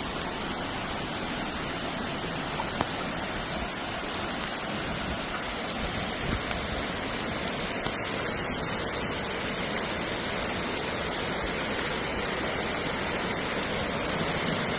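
Heavy rain falling steadily, with an even hiss of drops on hard surfaces and a few sharper drop ticks.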